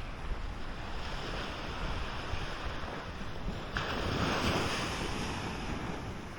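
Ocean surf washing onto the beach, with a louder wave breaking and washing in about four seconds in, over wind rumbling on the microphone.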